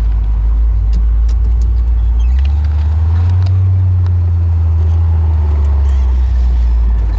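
The 427 cubic-inch big-block V8 of a 1968 Corvette Stingray running as the car is driven, a deep, loud rumble. The engine note climbs about two and a half seconds in, holds, and settles back down near the end.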